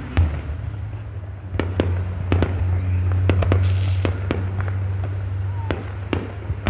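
Fireworks going off: one loud bang just after the start, then a run of irregular sharp cracks and pops over a steady low rumble.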